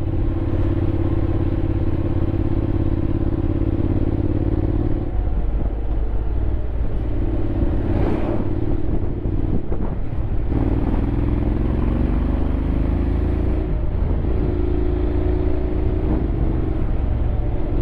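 Honda X-ADV 750's parallel-twin engine running while riding at a steady cruise. The engine note drops briefly about five seconds in and climbs gradually from about ten seconds in as the bike accelerates.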